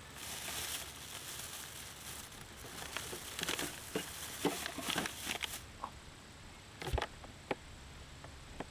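Rustling and crinkling for about five and a half seconds, with many small sharp clicks, then two separate knocks.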